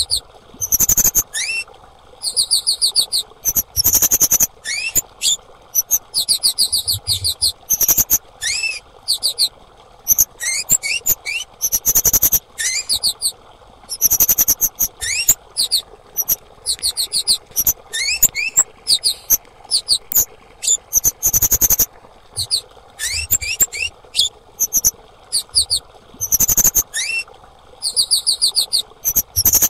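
Female kemade calling: bursts of rapid, very high-pitched chirps repeated every second or two, some notes gliding upward, with a few sharp clicks among them.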